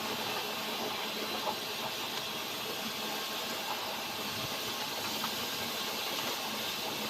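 Steady hissing spray from a motor-driven high-pressure jet pump washing a split AC's indoor unit, starting abruptly and cutting off suddenly.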